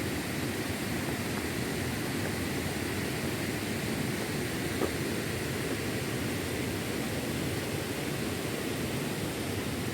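Steady, even rushing of water from a nearby waterfall, with one faint tick about five seconds in.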